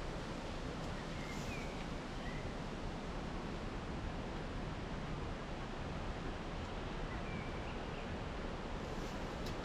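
Steady outdoor rushing noise of wind and surf through a coastal pine forest, with a few faint, brief bird chirps about a second in and again between seven and eight seconds.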